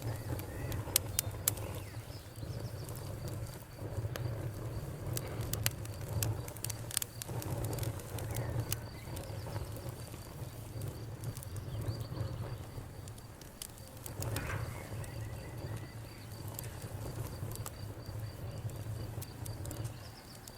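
Wood fire crackling: sharp irregular pops and snaps over a steady low rumble of burning.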